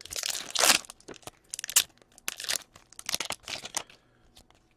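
Plastic crinkling as a pack of hockey trading cards is handled, in a run of short bursts that stop about four seconds in.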